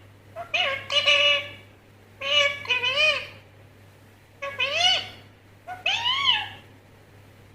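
Indian ringneck parrot calling in four short bursts of high, pitched calls, several of them rising and then falling in pitch.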